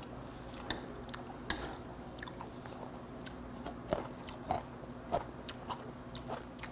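A person chewing raw horse meat sashimi close to a clip-on microphone: soft, wet mouth smacks and clicks that come more often in the second half, over a steady low room hum.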